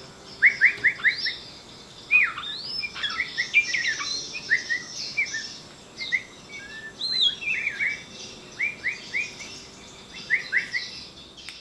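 Small birds chirping: runs of three or four short, quickly rising notes, repeated with brief pauses and sometimes overlapping, from more than one bird.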